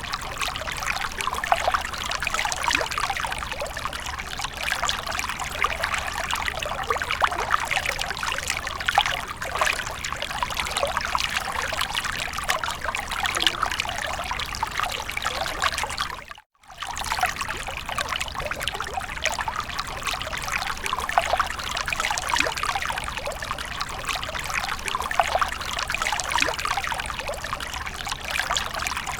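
Fountain water trickling and splashing steadily, a dense patter of small splashes. About 16 seconds in it cuts out for a split second and resumes, like a loop joint.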